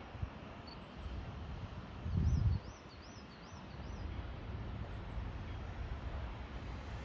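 Outdoor background rumble with a short low thump about two seconds in, followed by a small bird chirping five quick rising-and-falling notes.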